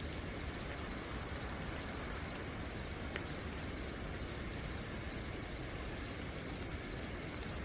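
Steady night rain hissing, with crickets chirping in a fast, even, high-pitched trill over it. A single faint tick about three seconds in.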